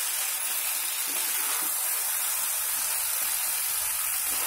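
Brinjal fry with chili powder sizzling in a kadai over medium heat as a spatula turns it: a steady hiss.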